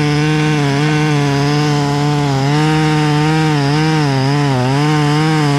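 Chainsaw running at full throttle while cutting through oak wood, its engine note holding high and dipping slightly again and again as the chain bites and the wood loads it.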